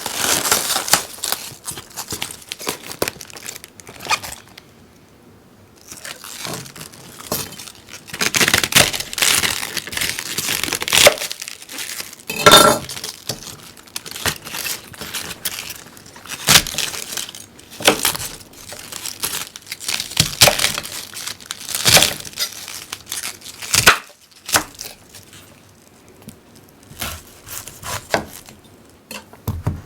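A knife scraping along a wooden stick in repeated irregular strokes, some about a second long with short pauses between: shaving curls to make a feather stick for fire lighting.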